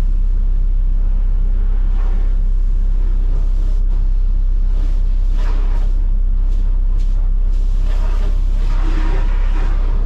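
Heavy truck engine running steadily with a deep, constant drone. A higher rushing noise swells over it about halfway through and again near the end.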